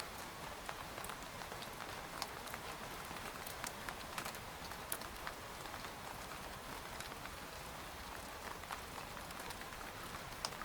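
Steady rain falling on a tent: an even hiss with many scattered, irregular taps of single drops hitting the fabric.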